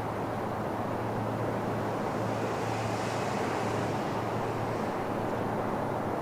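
Freight train rumbling steadily as it rolls past, with a constant low hum underneath and a slight swell in the hiss about halfway through.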